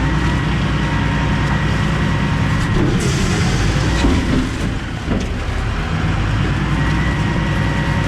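Automated garbage truck running its hydraulics: a steady engine drone with a constant whine. About three seconds in, there are knocks and rattles along with a hiss lasting about a second and a half.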